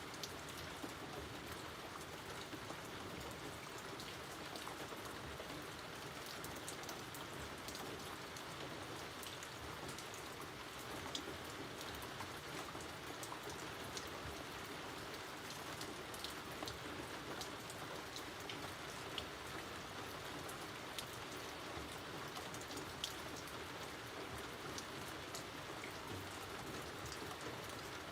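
Steady rain falling outdoors, an even hiss with many scattered, sharper drop ticks.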